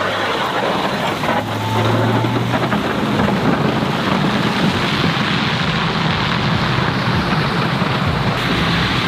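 Snow-removal vehicle's engine running steadily under a constant loud noise, with a low hum that swells briefly about a second and a half in.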